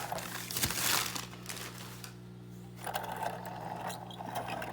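Rustling and crinkling of packing material and light clicks as a model train car is unwrapped and handled, busiest in the first second or so and then quieter.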